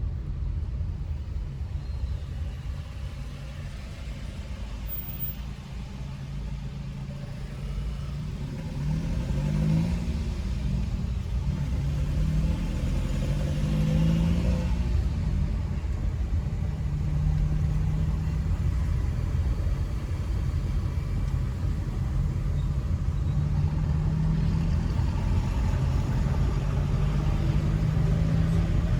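Car driving on a town street: a steady low rumble of engine and road noise. The engine note climbs in pitch several times in a row, as if accelerating up through the gears, then settles into a steady cruise.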